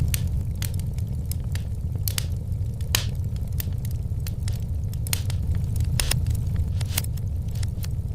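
Wood fire in a fireplace crackling, with sharp irregular pops, one or two a second, over a steady low rumble.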